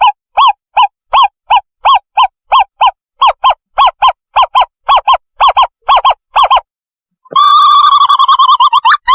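Owlet calls played as a lure for trapping birds: a fast series of short hoots, about three to four a second, then after a brief pause one long wavering trill about seven seconds in. Very loud.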